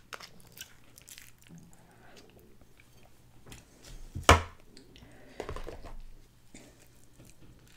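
Close-miked mouth sounds of someone chewing soft mashed potatoes, with small wet clicks. A single sharp knock comes about four seconds in as a plastic bowl is set down, followed by a brief crackle as a piece of crispy fried chicken is handled.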